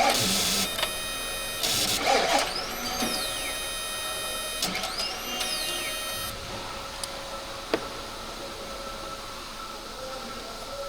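Chevrolet Suburban starter motor fed power directly to check whether it turns: two short noisy bursts, then it whirs up and winds down twice with a rising-then-falling whine.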